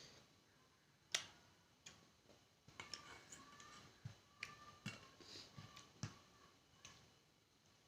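Close-up eating sounds: faint mouth clicks and smacks of chewing, about a dozen sharp clicks spread unevenly, with a short run of small wet squeaks in the middle.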